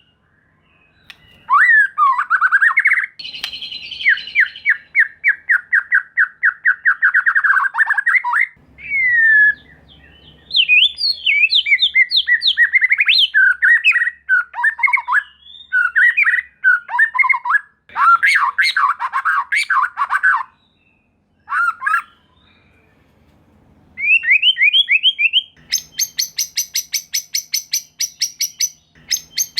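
White-rumped shama (murai batu) singing loudly: a rapid trill, then varied swooping whistled phrases, and near the end a fast run of evenly repeated sharp notes. It is a provocation song of the kind played to stir other shamas into singing.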